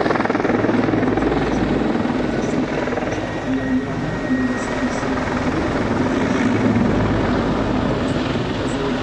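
Helicopter flying, with a steady rumble of rotor and turbine noise.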